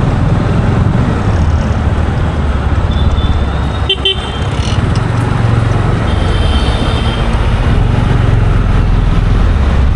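Road traffic: a steady low rumble of vehicles, with horns honking briefly about three to four seconds in and again around seven seconds in.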